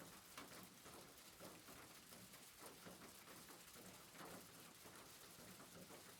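Faint soft rain: a steady hiss with scattered, irregular light patter of drops.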